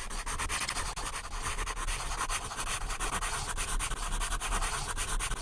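Continuous scratchy noise, dense with rapid crackles, like scribbling or rubbing.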